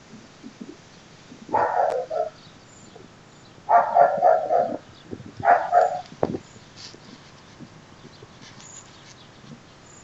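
A dog barking in three short bouts about two seconds apart, the middle bout the longest, over a steady faint background hiss.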